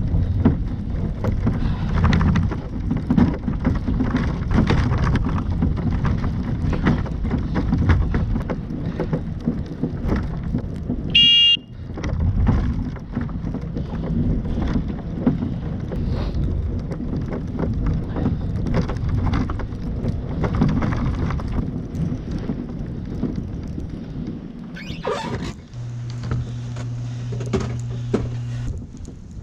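A velomobile's enclosed body rumbling and scraping as it is pedalled through deep, heavy wet snow, which the rider suspects is pushing snow with its underside. A short high beep about eleven seconds in, and a steady low hum for about three seconds near the end.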